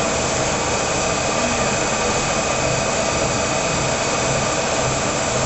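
Monarch 20 x 54 engine lathe running under power, a steady mechanical hum with several constant high-pitched tones over it.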